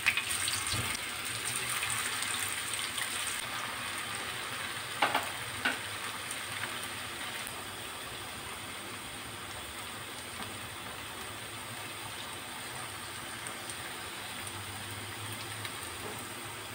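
Cauliflower patties shallow-frying in hot oil in a frying pan, a steady sizzle, with two light knocks about five seconds in.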